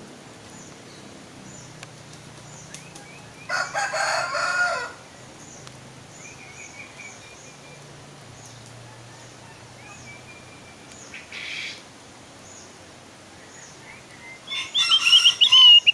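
Opior jawa (Javan grey-throated white-eye) calling with short, high chirps, breaking into a loud burst of rapid song near the end. About four seconds in there is a louder, lower call of about a second.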